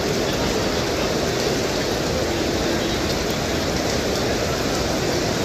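Steady rain falling on a paved courtyard, an even hiss with no breaks.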